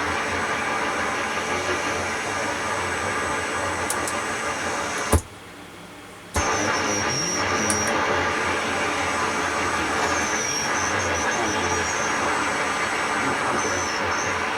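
Steady static and band noise from an AM shortwave receiver tuned to the 80-metre band. About a third of the way in, it cuts out for a little over a second, with a click as it stops and another as it comes back.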